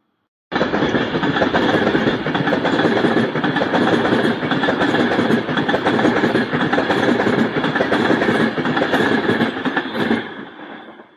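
Avanti West Coast Class 390 Pendolino electric train passing at speed: a loud, steady rush of wheels on rail with fine rapid clicking. It starts abruptly and fades away after about ten seconds as the end of the train goes by.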